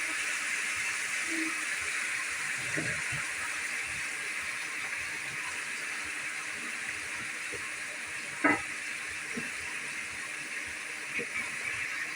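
A steady hiss, with a few light knocks and one sharper knock about eight and a half seconds in.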